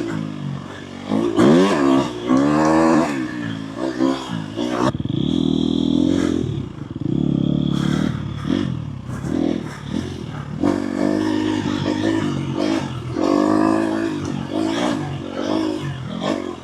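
Dirt bike engine being ridden on a trail, its pitch rising and falling over and over with the throttle, holding steady for a few seconds about five seconds in.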